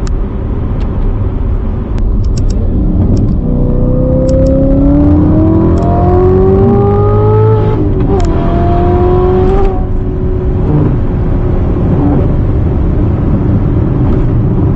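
Corvette C7 ZR1's supercharged 6.2-litre V8 accelerating hard. Its note climbs for about four seconds, drops at an upshift, and climbs again briefly before easing back to a steady cruise over road and tyre noise.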